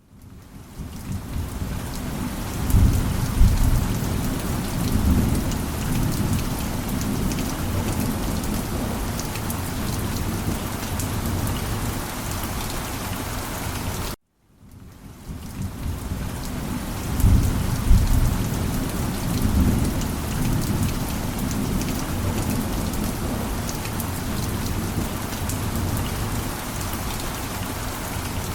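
Steady heavy rain with a low rumble of thunder a few seconds in. The same stretch of rain and thunder plays twice, each time starting after a brief dead silence and fading back in.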